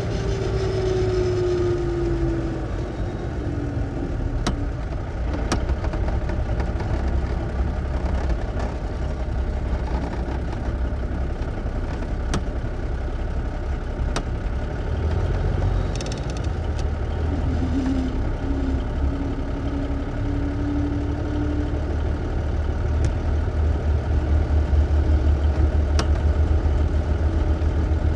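A 1954 big rig truck's engine heard from inside the cab while driving through its gears: a steady low rumble whose pitch falls in the first few seconds, then picks up and holds a steady note partway through, growing heavier near the end, with a few sharp clicks along the way.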